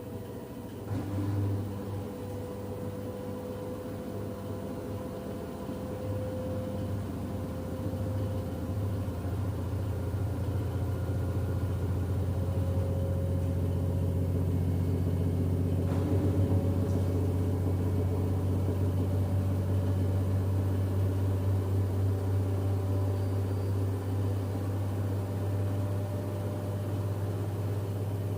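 LG F10B8MD direct-drive washing machine on its final spin, drum speeding up toward 1150 rpm: a steady low hum with a faint whine that climbs slowly in pitch and grows louder over the first half, then runs steady. No bearing drone or knocking, which the owner takes as the sign of a healthy machine.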